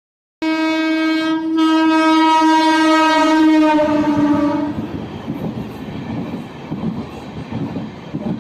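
Train horn sounding one long steady blast for about four seconds, then cutting off and leaving the rumble and clatter of the train's wheels on the rails.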